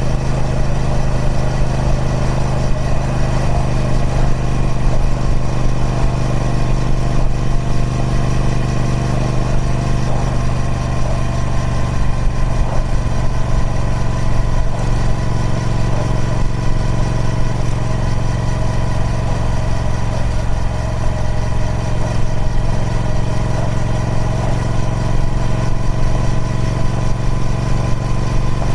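Triumph Speed Twin 1200's parallel-twin engine running through its stock exhaust at a steady engine speed, with an even, unchanging note.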